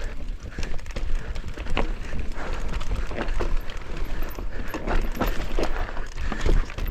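Mountain bike descending rough dirt trail: tyres rolling over dirt and roots, with frequent irregular knocks and rattles from the bike hitting bumps, over a steady low rumble of wind on the microphone.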